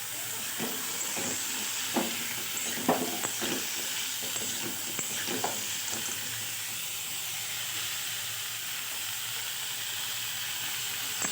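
Potato pieces frying in hot mustard oil in a kadai: a steady sizzle, with a few light knocks in the first half as they are stirred.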